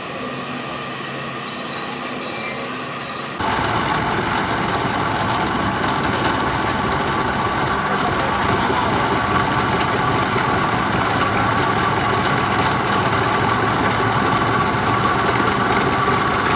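Heavy workshop machinery running with a steady mechanical hum, which jumps suddenly louder about three and a half seconds in and then holds steady.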